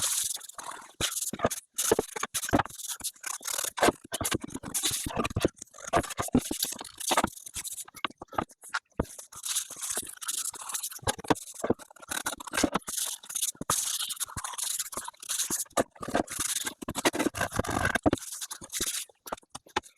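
Scraping and rubbing of boiled linseed oil being worked onto pine boards, sped up so that it comes in short choppy stretches broken by many abrupt cuts.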